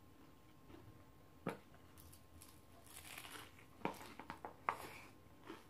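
Faint crunching and chewing of a crisp baked-cheese taco shell, with a few sharp crunches a second and a half, four and nearly five seconds in.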